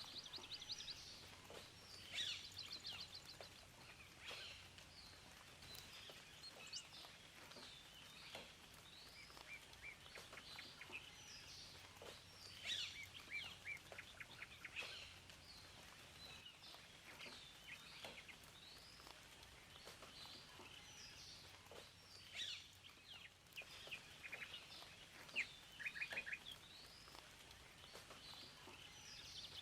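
Several songbirds chirping and singing, with short trills and quick rattling runs of notes, over a faint steady hiss.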